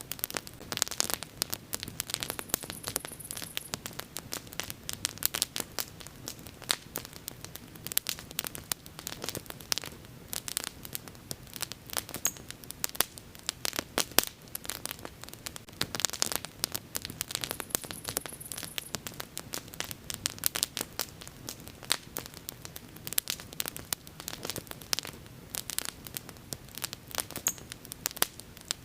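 Wood bonfire crackling: a dense, irregular stream of sharp pops and snaps over a faint steady low rumble of the flames.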